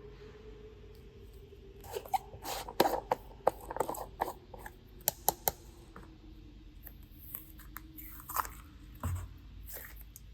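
Slime being pressed and squeezed by hand, giving a run of sharp crunchy crackles and clicks. They are densest between about two and six seconds in, with a few scattered ones later.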